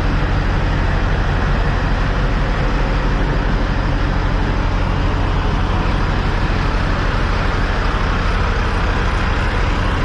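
Semi-truck running steadily, a continuous low engine rumble mixed with road and wind noise, with no change in speed or pitch.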